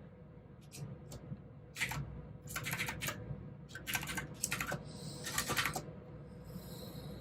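Mechanical keyboard with clicky blue switches being typed on in short bursts of keystrokes, separated by brief pauses.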